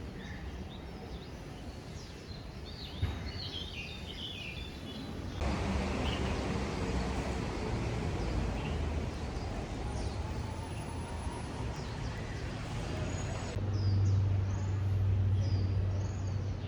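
Small birds chirping in quick repeated calls over a steady wash of outdoor background noise. In the middle part the noise is louder and the chirping drops away, and near the end a low steady hum comes in under the birdsong.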